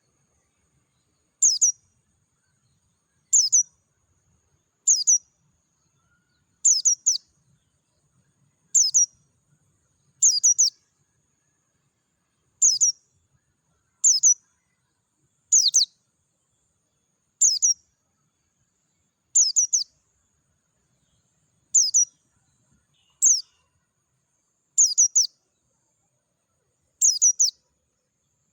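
White-eye (pleci) calling: short, high chirps, each a quick cluster of falling notes, repeated at an even pace of about one every one and a half to two seconds.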